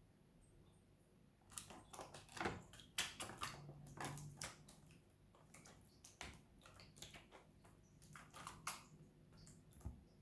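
Budgie bathing in water: a run of quick, irregular splashes and flicks starting about a second and a half in, thinning out near the end.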